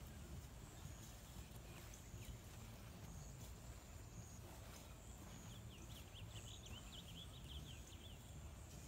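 Quiet outdoor ambience with a low steady rumble; about five and a half seconds in, a bird gives a rapid run of short high chirps lasting about two seconds.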